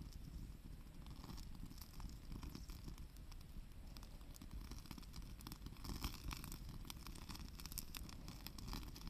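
Wood campfire crackling, with scattered sharp pops and snaps over a steady low rumble; the pops come thicker about two-thirds of the way through.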